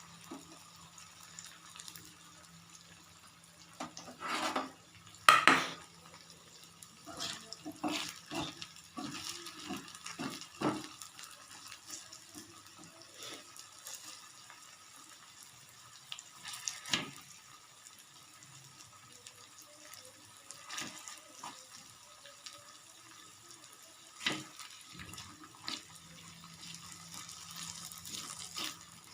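Water splashing in a sink as something is washed and handled: short, scattered splashes and knocks, the loudest about five seconds in.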